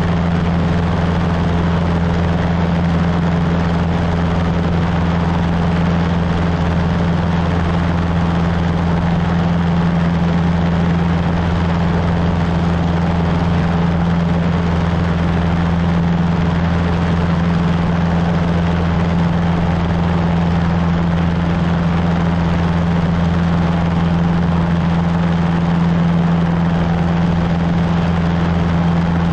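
Cessna 150's four-cylinder Continental O-200 engine and two-blade propeller running at a steady power setting, a loud even drone with a constant low hum that neither rises nor falls.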